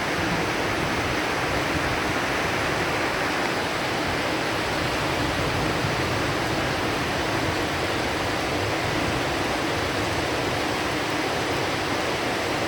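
Heavy rain falling steadily as a dense, even hiss, with no thunderclap.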